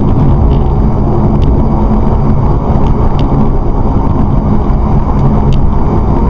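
Steady rumble of a car driving at speed, engine and tyre noise picked up by the dashcam inside the cabin.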